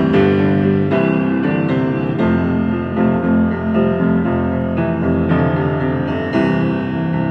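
Piano playing an instrumental passage of a rock song, with new chords struck roughly once a second.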